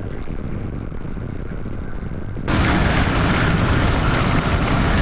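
Low rumble of wind and vehicle noise that jumps abruptly about two and a half seconds in to a louder, hissing rush.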